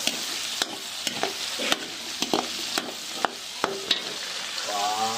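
Onion, garlic and pork sizzling in hot oil in a pan as they are sautéed and stirred. A utensil knocks and scrapes against the pan in repeated, irregular strokes over the steady hiss of frying.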